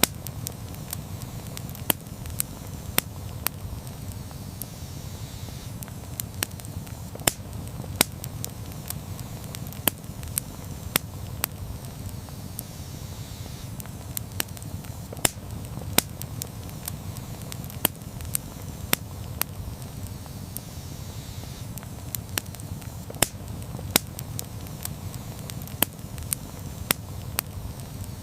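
Campfire crackling: frequent, irregular sharp pops and snaps from the burning wood over a steady low rumble of flame.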